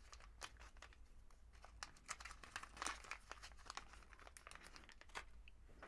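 Faint, scattered light clicks and rustles of small parts being handled.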